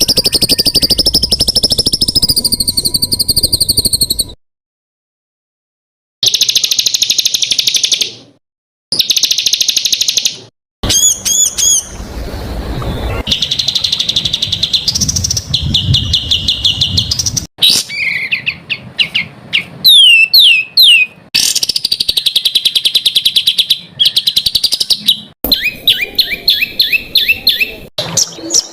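Spliced songbird recordings of the kind used as masteran for caged birds to learn from: rapid-fire, harsh repeated notes and fast trills, high pitched, changing abruptly from one clip to the next. There is a silent gap of about two seconds after roughly four seconds.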